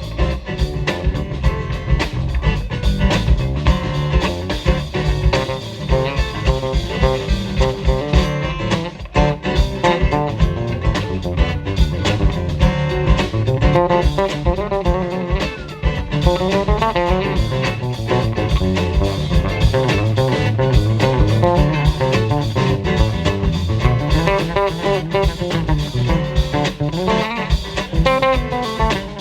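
Live band playing an instrumental break: a guitar carries the lead melody with bent, wavering notes over bass and a steady beat.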